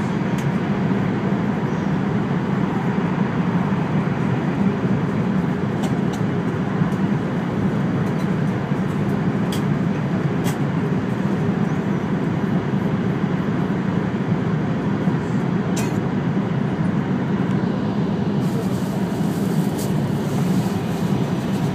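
Steady running noise inside the passenger cabin of an E5-series Shinkansen: an even low rumble and rush from wheels, track and air, with a few faint ticks.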